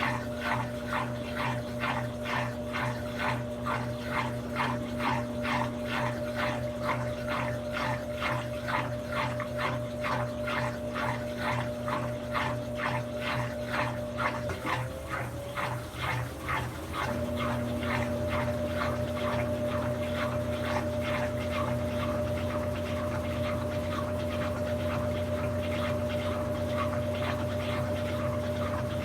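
Brastemp 17 kg BWK17 washing machine running mid-cycle: a steady motor hum with a rhythmic swishing about two and a half times a second. About halfway through the hum drops out and glides briefly, then picks up again, with the swishing fainter.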